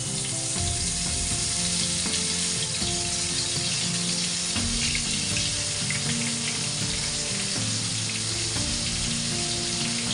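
Food sizzling steadily as it fries in hot oil, with background music playing underneath.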